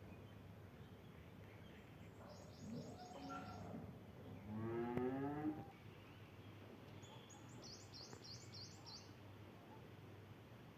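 An animal giving two low, drawn-out calls, the second louder and rising in pitch. A bird's quick run of high chirps sounds twice, once with the first call and again near the end.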